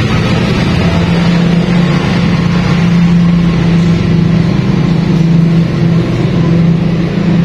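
A motor running steadily, with a constant low drone and a hiss above it.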